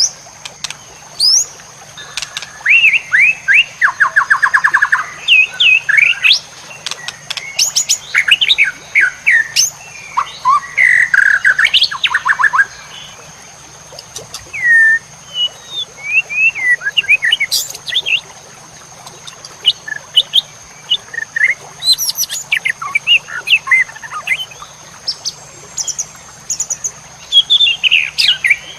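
White-rumped shama singing a varied song of loud whistles, sliding notes and fast rattling trills in quick phrases separated by short pauses. A faint steady high tone runs underneath.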